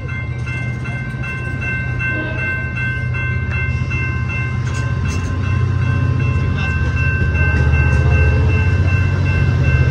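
Amtrak passenger train pulling out, its diesel locomotive's low engine rumble growing steadily louder, with several steady high-pitched whining tones over it.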